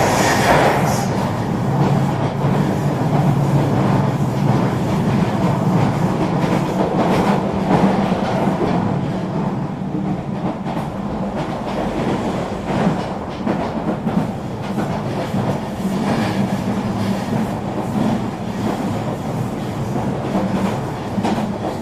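Eurobahn regional train running along the line: a steady rolling rumble with a low hum and scattered clicks of the wheels over the rails.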